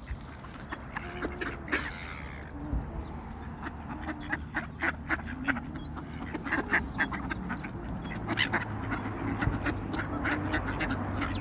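A flock of ducks quacking in many short, overlapping calls as they crowd in for bread, with short high calls from other waterbirds mixed in.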